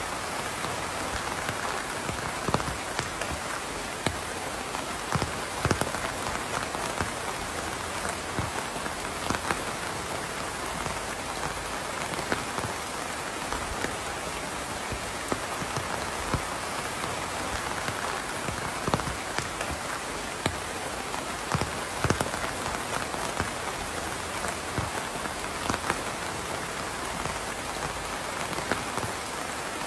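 Steady rain falling, a dense patter with scattered louder drops landing close by.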